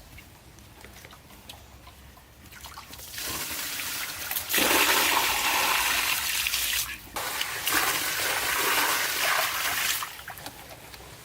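Water rushing and pouring in a steady noisy gush. It builds about three seconds in, is loud for some five seconds with a brief break partway, then stops.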